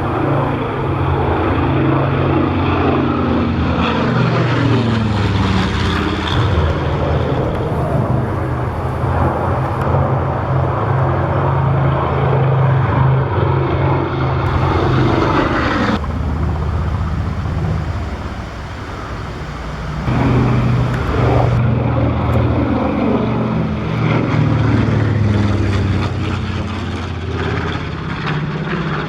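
B-25 Mitchell bomber's twin radial piston engines flying past, the engine note sliding down in pitch as it goes by. The sound drops away briefly past the middle, then builds again for another pass with a second falling pitch.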